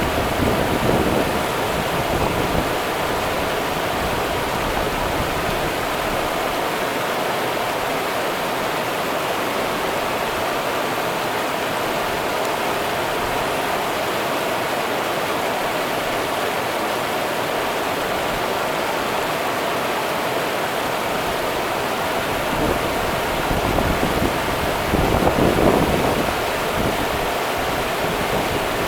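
Rio Grande river water rushing steadily, with low rumbling swells near the start and again around three-quarters of the way through.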